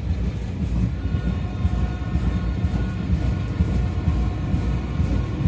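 Train rumbling steadily, with faint high steady tones joining about a second in.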